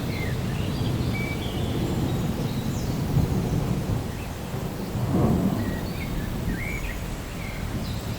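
Thunder rumbling continuously over steady rain, swelling into a louder roll about five seconds in.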